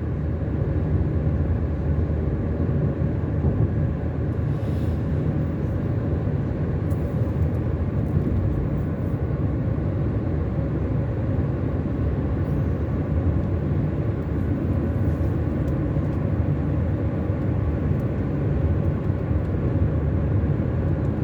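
Car driving at steady speed on a highway: a constant low rumble of engine and tyre noise.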